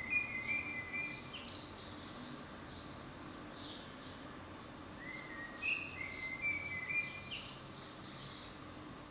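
Birds singing and chirping in two bursts, one at the start and another about five seconds in, each with a short rising whistle followed by held notes and quick higher chirps, over steady background noise.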